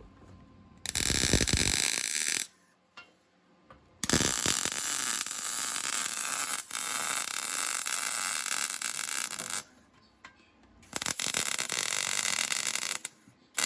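MIG welder arc crackling in three runs, about a second and a half, five and a half seconds, and two seconds long, each starting and stopping sharply with short pauses between, as the steel exhaust pipe is welded.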